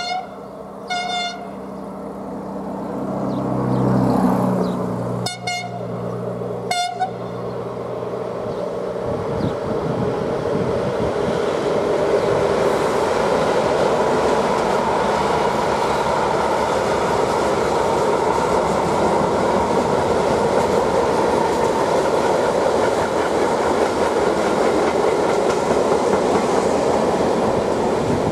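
Freight train locomotive passing, sounding several short horn toots in the first seven seconds, its engine hum swelling about four seconds in. The locomotive is followed by a steady rolling rumble and clatter of the wagons going by.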